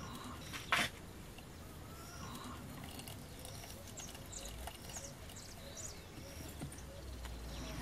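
Quiet outdoor background with a few short, faint, high bird chirps around four to six seconds in, and one sharp click or knock just under a second in.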